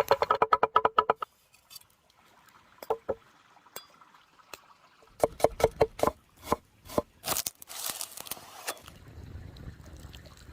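Food-preparation sounds: a fast, even run of taps near the start, scattered knocks in the middle, and a short hiss a little past halfway.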